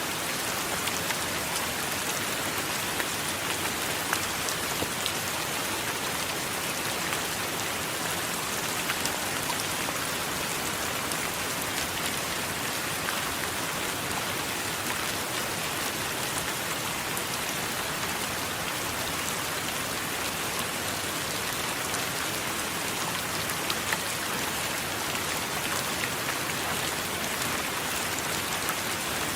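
Steady heavy rain with many fine drop ticks, and no thunder.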